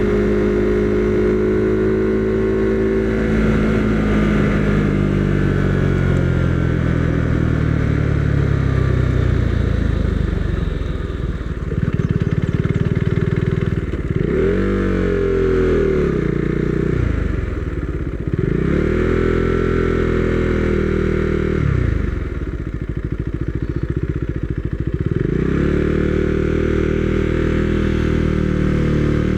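Husqvarna Svartpilen 401's single-cylinder engine slowing down as the bike decelerates over the first several seconds. It then rises and falls in pitch three times as the throttle is opened and rolled off at low speed.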